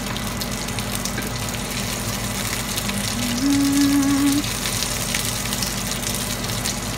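Thin breaded chicken frying in oil in a pan, a steady sizzle with fine crackles.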